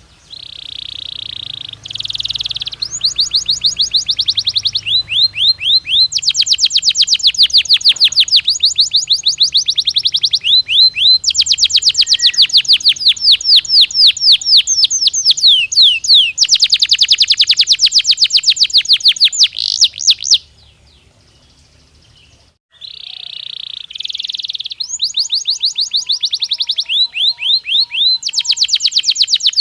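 Domestic canary singing: fast, high-pitched trills of rapidly repeated notes in phrases that switch every second or two. The song breaks off about 20 seconds in and starts again two seconds later.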